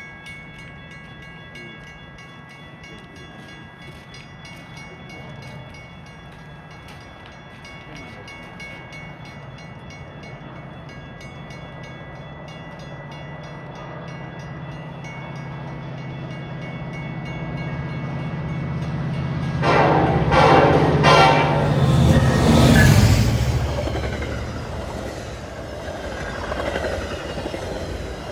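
Metra diesel commuter train approaching and passing through the station without stopping. Its steady rumble grows louder, its horn sounds about 20 seconds in, and then the train rushes past loudly.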